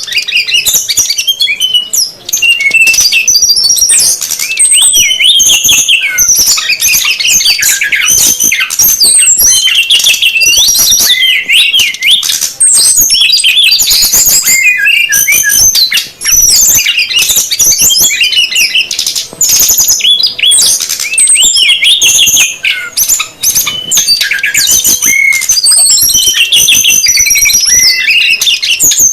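Male and female brown-chested jungle flycatchers (sikatan rimba dada coklat) calling and singing together: a dense, continuous tangle of quick, high chirps and sweeping trills, played as a lure call to draw in wild birds of the same species.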